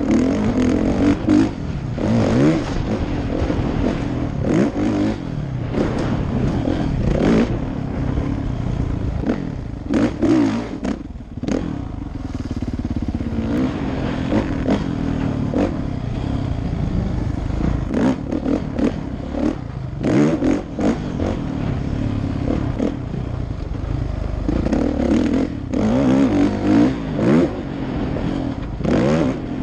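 2016 Kawasaki KX450F dirt bike's single-cylinder four-stroke engine, revving up and down repeatedly while being ridden, with clattering knocks from the bike throughout. The throttle drops off briefly about eleven seconds in before the engine picks up again.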